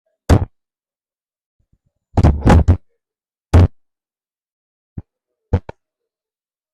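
A series of short, sharp knocks and thumps over otherwise dead silence: a single one, then three in quick succession about two seconds in, another a second later, and a light double knock near the end.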